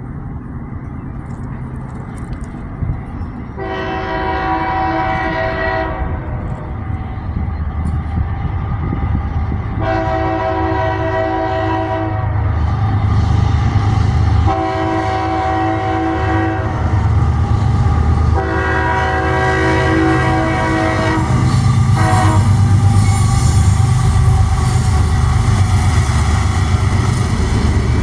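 Freight train's diesel locomotive approaching with a rumble that grows louder, sounding its air horn in four long blasts, then more horn near the end.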